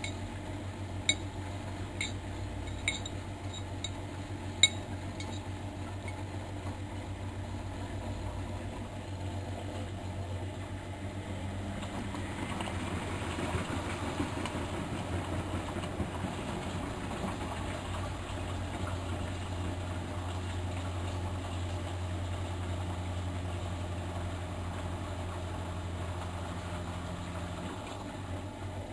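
Miele Novotronic Meteor 2200 washing machine running a 95 °C boil wash: steady motor hum with water and laundry sloshing in the turning drum, growing louder about twelve seconds in. A few sharp clinks sound in the first five seconds.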